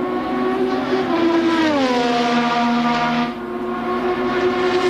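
Formula One car engine running at high revs, its pitch falling once about a second and a half in and then holding steady.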